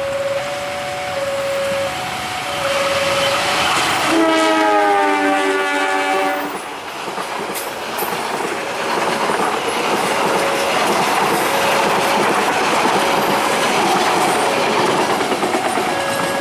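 A railway level-crossing alarm alternates between two tones, then about four seconds in a fast train sounds its horn (the semboyan 35 warning signal) in a chord for about two and a half seconds, dropping slightly in pitch as it passes. The horn gives way to the rushing noise and wheel clatter of the train passing at speed, and the crossing alarm rises again near the end.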